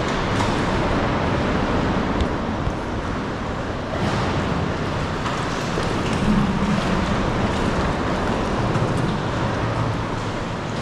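Sea water washing and wind noise on a sea kayak's camera microphone, a steady rushing that rises slightly about four seconds in.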